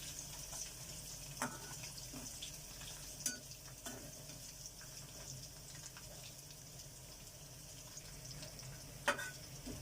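Ginger, garlic and chopped curry leaves frying in hot sunflower oil in a pan, a steady sizzle, with a few sharp clinks of a spoon against the pan as it is stirred.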